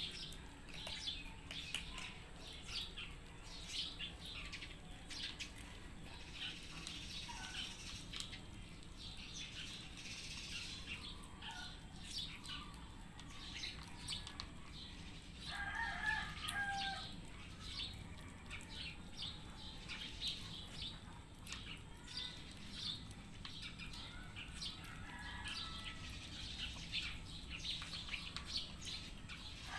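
Cats eating a mix of dry kibble and wet food: a steady patter of small crisp crunches and chewing clicks, with a couple of brief pitched calls in the background, one about halfway through and one at the very end.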